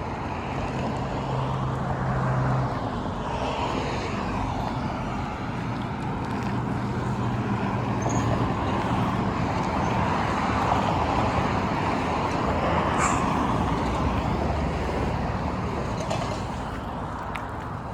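Road traffic passing: the steady engine and tyre noise of cars and trucks, swelling and easing as vehicles go by, with a low engine hum in the first couple of seconds and again midway.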